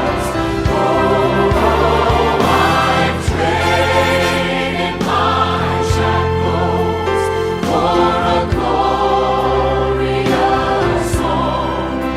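Christian worship music: a choir singing sustained lines over instrumental accompaniment.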